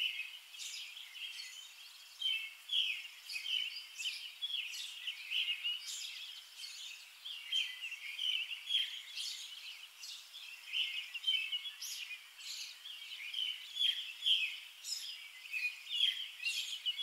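Many small birds chirping: a dense run of short, high calls with no pause.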